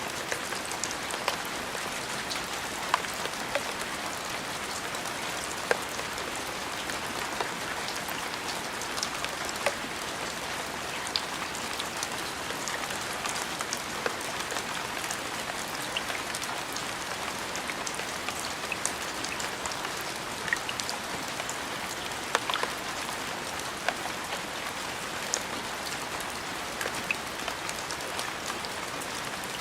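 Steady rain falling on a surface, an even hiss with many separate drops pattering sharply through it.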